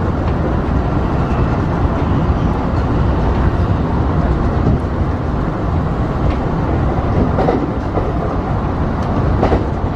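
Kintetsu electric train running on the Kyoto Line, heard from inside the front car behind the driver's cab: a steady rumble of wheels on rail. A few short clacks from the track come in the second half.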